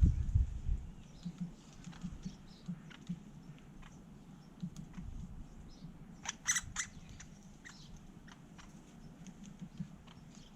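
Light, irregular taps and clicks of greater spotted woodpeckers pecking at nuts, with a short, sharp bird call about six and a half seconds in. A low rumble fades out within the first second.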